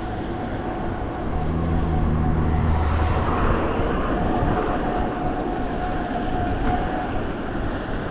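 Steady road and engine noise of a car driving, with a low engine hum that comes up for a second or so.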